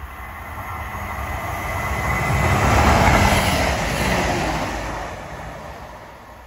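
CrossCountry diesel multiple unit passing through the station at speed. Its rush rises to a peak about three seconds in, then fades as the train draws away.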